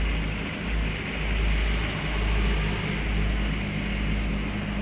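Generator set running steadily: a constant low engine hum and rumble.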